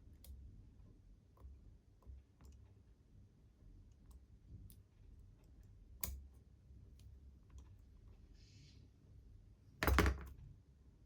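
Light clicks and taps of small metal model-locomotive parts and tools being handled on a workbench, with one louder clatter about ten seconds in.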